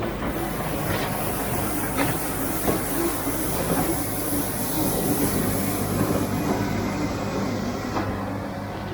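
Tractor engine running steadily while driving a rotary broom under test, with scattered ticks. A high hiss runs over it and cuts off near the end.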